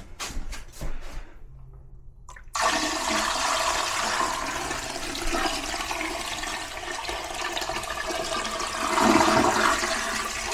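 A few light knocks, then about two and a half seconds in a toilet starts flushing, a steady rush of water that runs on for the rest of the time. The water is a bucket of condensate bailed from an overflowing AC drain pan with a clogged P-trap.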